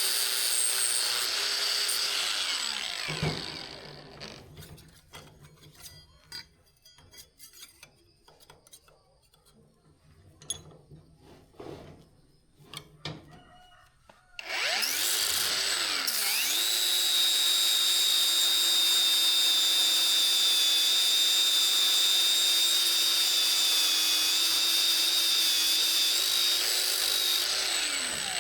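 An electric power tool's motor runs, then winds down about three seconds in. Scattered light clicks and taps follow. About halfway through it starts again, spins up, and runs steadily, slowing near the end.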